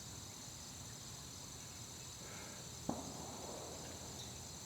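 Steady high-pitched chorus of crickets chirring, with a single faint click just before three seconds in.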